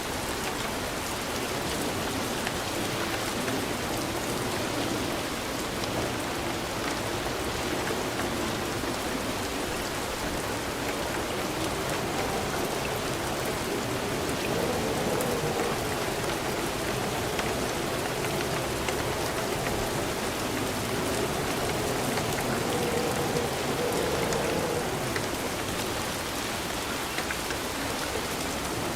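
Steady, even rain falling and pattering on surfaces, with fine drop ticks in the mix and no thunder.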